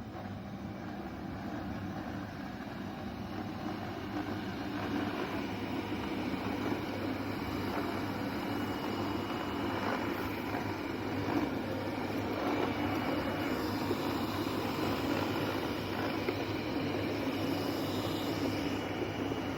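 Laresar Mars01 robot vacuum cleaner running: a steady motor drone with a low hum, slowly getting a little louder over the first few seconds.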